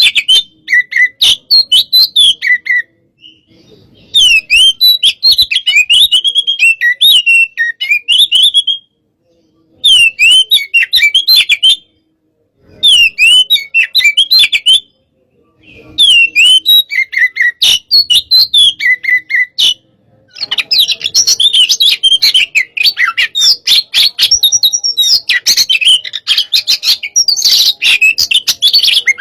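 Oriental magpie-robin (kacer) singing in a heated, aggressive style: rapid runs of whistled notes and harsh chattering in bursts of two to three seconds with short pauses between, turning into one unbroken stretch of song over the last third.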